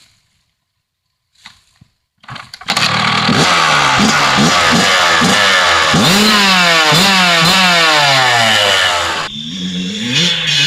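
2006 Kawasaki KX100 two-stroke dirt bike engine starting up about two seconds in after a few short attempts, then revved over and over with its pitch rising and falling. Near the end the throttle drops and it runs lower and unevenly.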